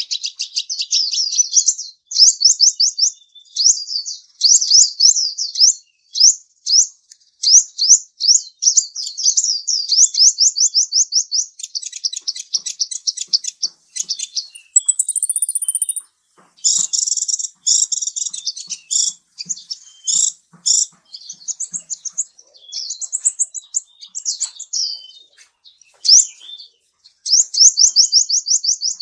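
A small bird singing: long runs of rapid, high chirps and trills, with a brief high whistle about halfway through.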